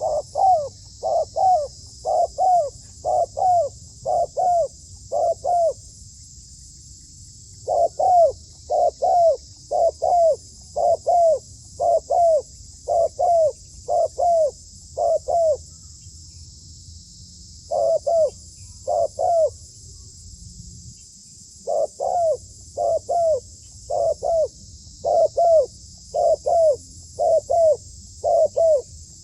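Zebra dove calling a series of short coos, about two a second, in bursts broken by brief pauses. A steady high insect buzz runs underneath.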